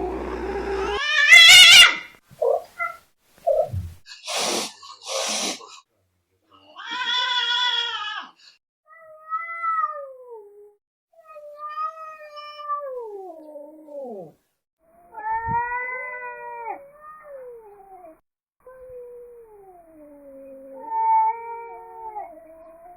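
Angry cat yowling and caterwauling: a loud wavering cry, two short hisses about four to five seconds in, then a string of long drawn-out wails that mostly slide down in pitch. These are the defensive, agitated sounds of a cat ready to fight.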